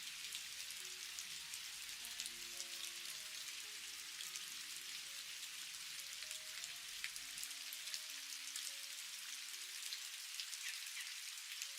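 Steady rain: an even hiss with many individual drops ticking on a surface. Faint soft music notes sit underneath and thin out after about seven seconds.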